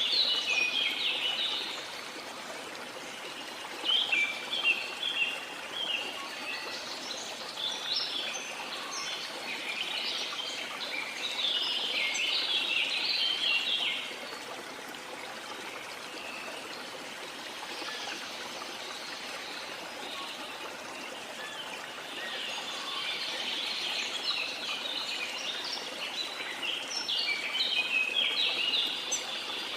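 Steady rush of running water, with songbirds singing over it in repeated bursts of quick, high chirping notes that come and go every few seconds.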